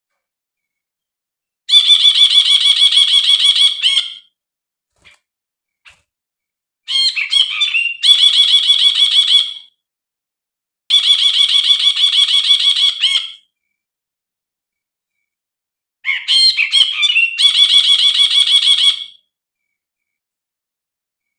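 Brinji, a bulbul, calling four times. Each call is a long, fast, even trill of pulses at one steady high pitch. The second and fourth calls each open with a short burst of jumbled chattering notes.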